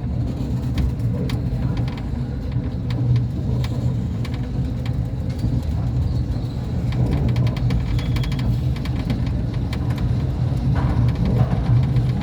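Small battery-electric narrow-gauge Mail Rail train running, a steady low rumble with scattered clicks and rattles from the wheels and carriage.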